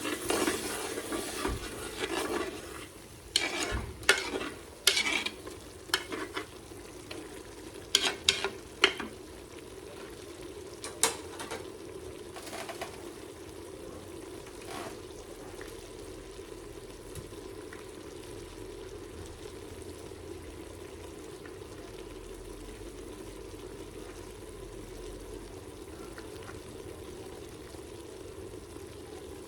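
Pork frying in a pan with a steady sizzle, stirred with a utensil that scrapes and knocks against the pan in the first half, then left to sizzle on its own.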